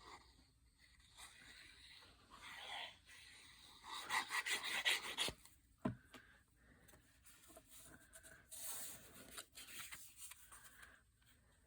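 Paper being rubbed and smoothed down by hand, pressing glued pieces of book page flat, in several strokes. The longest and loudest stroke comes about four to five seconds in, and there is a sharp tap about six seconds in.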